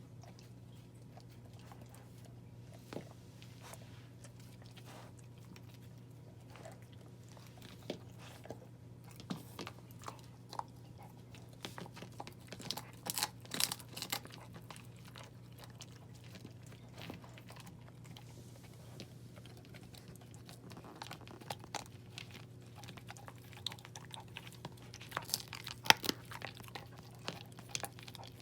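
A puppy chewing and crunching food, with irregular crisp crunches that come thickest about halfway through and again near the end.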